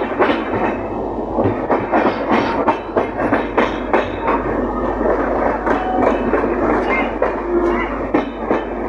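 Passenger train running through a station approach, its wheels clacking irregularly over rail joints and points under a steady rumble as it pulls in.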